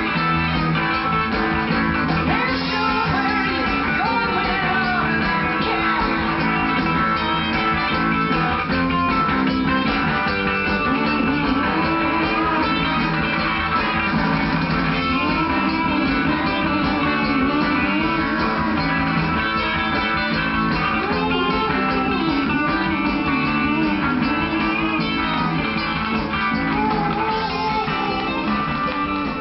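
Sixties folk-rock band recording: a guitar-led instrumental passage with bass and drums and no singing.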